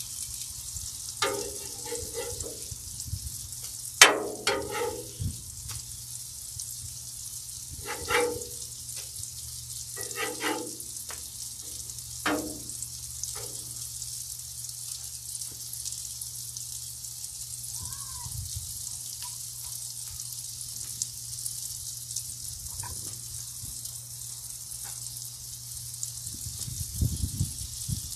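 Butter-and-brown-sugar sauce with sliced bananas, and custard-soaked French toast, frying with a steady sizzle on a flat-top griddle. A metal spatula scrapes and knocks against the griddle several times in the first half, the loudest knock about 4 seconds in.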